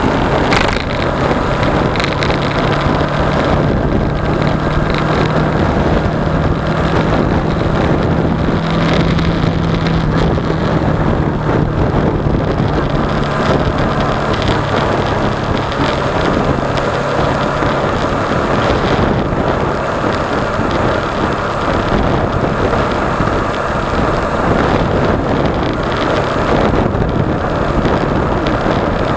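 Suzuki V-Strom 250 parallel-twin engine running steadily at road speed, with wind rushing over the action camera's microphone. The engine note rises slightly about nine seconds in, then eases back.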